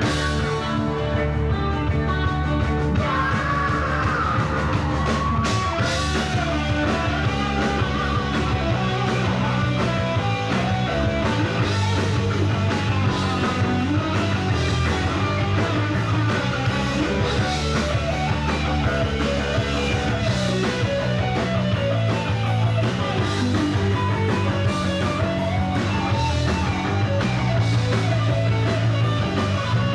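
A rock band playing an instrumental passage with drums, bass and electric guitar. A wavering guitar bend stands out about three seconds in.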